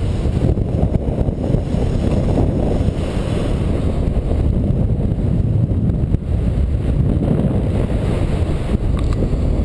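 Strong wind buffeting the microphone, a steady low rumble of airflow while the paraglider flies in gusty wind.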